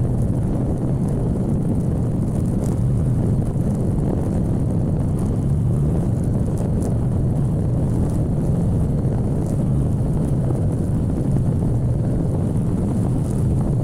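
Motorcycle running at a steady speed on the road, a constant low rumble of engine and road noise.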